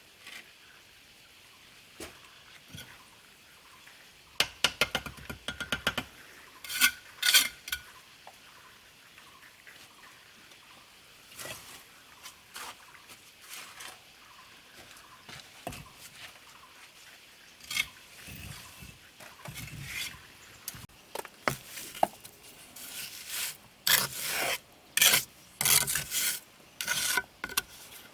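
Hand scraping or rasping strokes on a hard surface, consistent with work on brick or mortar. A few bursts of strokes come early, the strokes are sparse in the middle, and they come faster and louder near the end.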